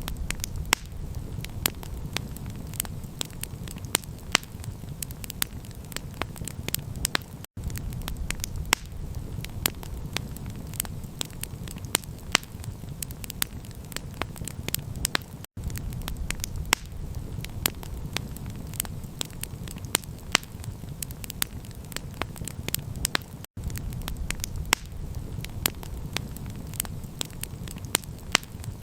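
Campfire crackling and popping in quick irregular snaps over a steady low rumble. The sound cuts out for an instant about every eight seconds, where a short recording is looped.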